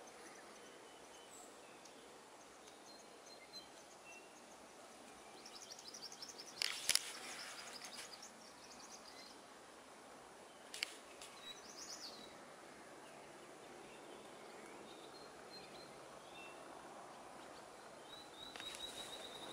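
Faint woodland ambience with scattered bird chirps, including a quick run of high repeated notes about six seconds in. A few sharp clicks come through, the loudest about seven seconds in and another near eleven seconds.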